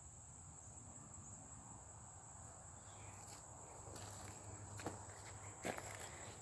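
Faint, steady high-pitched chirring of insects, such as crickets, in woodland. Two light crunches, like footsteps or a twig underfoot, stand out about five seconds in.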